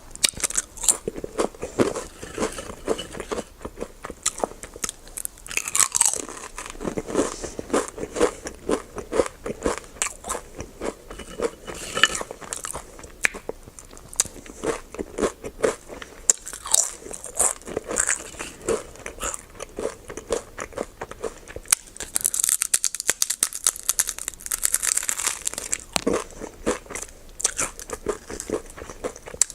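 Close-up chewing and crunching of a crunchy chocolate snack, many sharp irregular crunches with wet chewing between them. A busier, crisper run of crunches comes a little past the middle.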